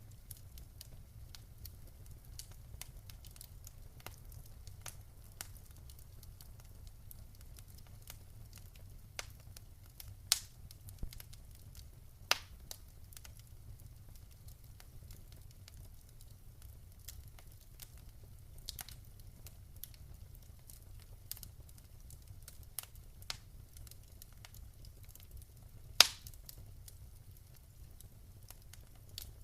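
Wood fire crackling, with irregular sharp pops over a low steady rumble; the loudest pop comes near the end.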